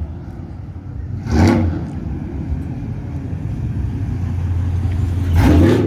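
Vehicle engine running with a steady low rumble, broken by two short, loud rushing bursts of noise, one about a second in and one near the end.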